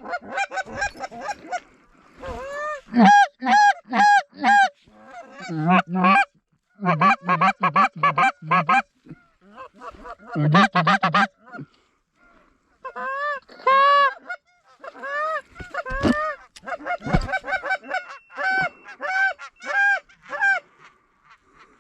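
Goose honking: rapid runs of short honks and clucks, several in a row, in bursts with short pauses between. Two dull low thumps sound near the end.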